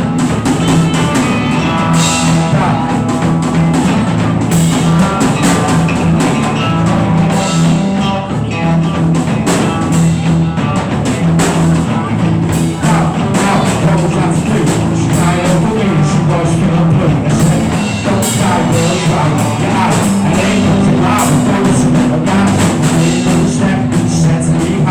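A rock band playing an instrumental passage: drum kit, bass and electric guitar. Steady and loud.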